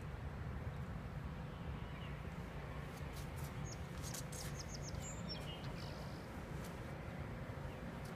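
Birds chirping faintly, a cluster of short high chirps in the middle, over a steady low outdoor rumble.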